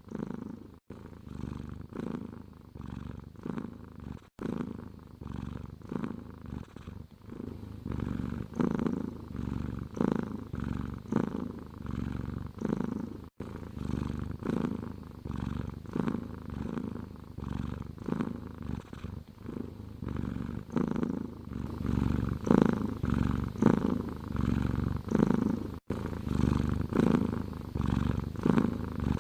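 Domestic cat purring close up, a low rumble that swells and fades with each breath about once a second, with a few brief cut-outs.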